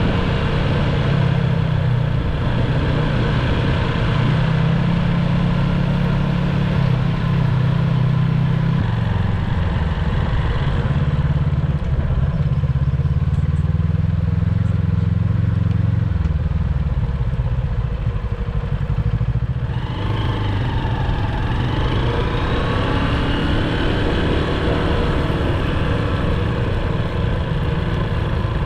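A motor vehicle engine running steadily, its low note shifting now and then; about twenty seconds in, the sound changes character.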